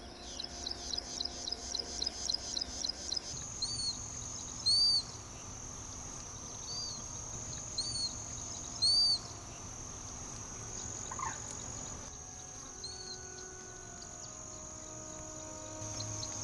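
Wild birds calling over steady high-pitched insect buzzing. A fast, even pulsing trill fills the first three seconds, then short arched calls repeat about six times, two of them loud.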